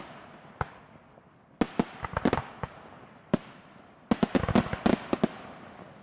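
Fireworks going off: a single sharp bang, then clusters of rapid bangs with another single bang between them, each trailing off in a fading echo.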